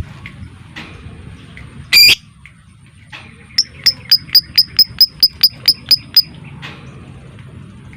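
Lovebird giving one loud, harsh screech, then a fast run of about a dozen sharp chips at roughly five a second: the 'ngetik' (typing) call.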